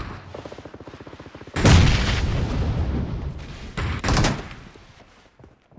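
Gunfire in a shooter video game: rapid automatic fire, with loud blasts about one and a half and four seconds in, then fading away.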